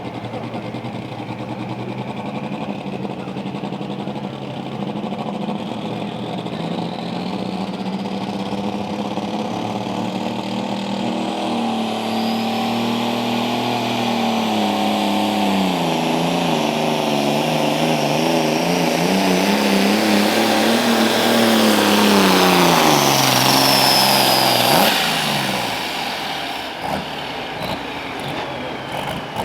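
Pulling tractor's engine running hard under load down the track, its revs sagging and recovering twice, with a high whine over it. Near the end the revs fall away sharply and the engine drops to a lower note.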